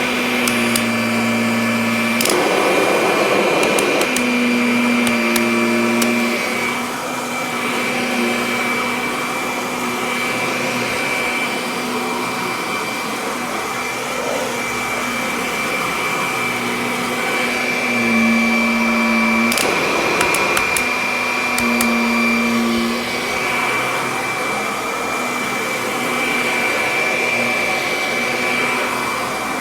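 Kirby Avalir upright vacuum cleaner running while vacuuming, with a steady high whine throughout and its lower hum shifting as it works. There is a brief louder rushing surge about two seconds in and another about twenty seconds in.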